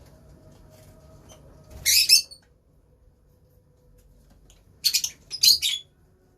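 Lovebirds giving short, shrill chirps: one loud burst about two seconds in and a quick cluster of three or four near the end.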